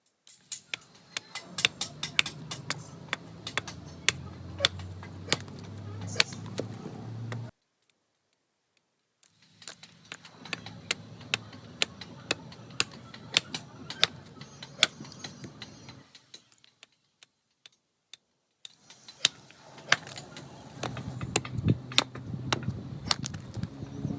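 Workshop work sounds: sharp, irregular taps and clicks, several a second, over a low steady hum. The sound cuts off abruptly twice.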